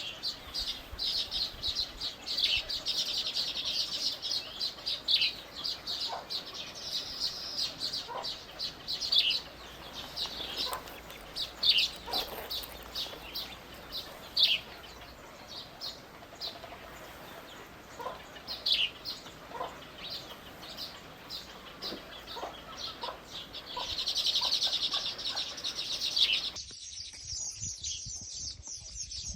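Small birds chirping rapidly and chattering in busy high-pitched runs, with some sharper single calls among them. The background changes abruptly near the end, as at an edit, while the chirping goes on.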